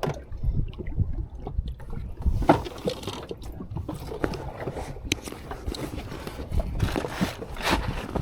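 Small fishing boat under way in choppy sea: irregular splashes and knocks of water against the hull over a steady low rumble.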